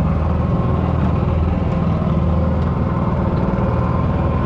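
A small boat engine running steadily on a home-built flat-bottom steel boat.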